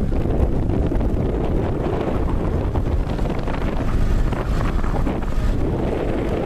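Wind buffeting the microphone: a steady, loud rush of noise with a deep rumble underneath.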